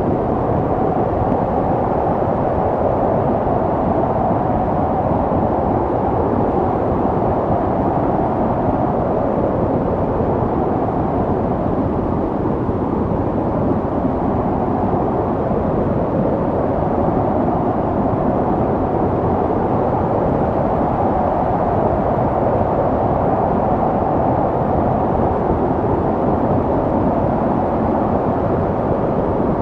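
Snowstorm wind blowing steadily, a dense, deep rushing noise with no gusts or breaks.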